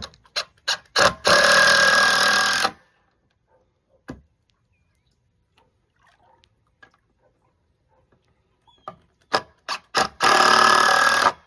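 Cordless screw gun driving screws into wood: a few short trigger blips, then a run of about a second and a half; quiet; then more blips and a second run of about a second near the end.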